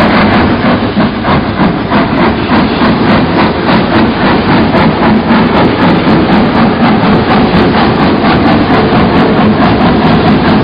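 Train running on rails, its wheels clattering over the rail joints in a fast, steady clickety-clack.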